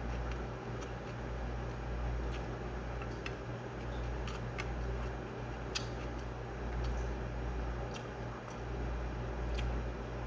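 Close-up chewing and soft mouth clicks of someone eating rice by hand, scattered faint clicks over a steady low hum.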